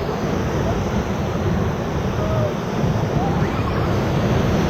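Loud, steady rush of whitewater as a raft runs a rapid, with wind buffeting the microphone and a few faint distant voices.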